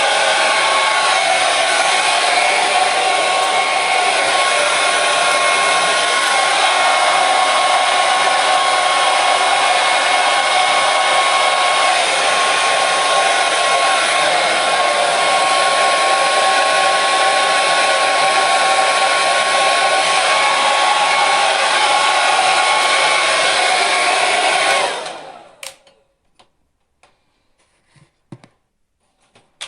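Hair dryer blowing with a steady, even rush and a faint steady whine. About 25 seconds in, it winds down and stops. A few faint clicks fall in the brief quiet, then it starts again at the very end.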